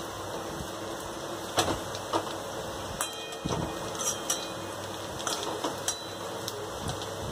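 Onion pakoras sizzling in hot oil in a steel kadhai, with the clink and scrape of a steel slotted spoon against the pan every second or so as the fritters are turned over.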